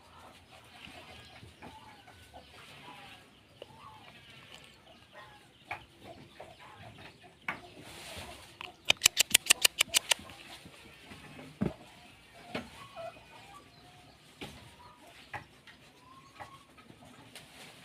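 Chickens clucking on and off, with a quick run of about ten sharp, loud clicks a little past halfway through.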